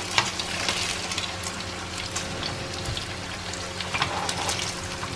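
Chicken breast pieces sizzling steadily as they pan-fry in hot oil, with scattered sharp crackles and clicks as metal tongs lift the browned pieces out of the pan.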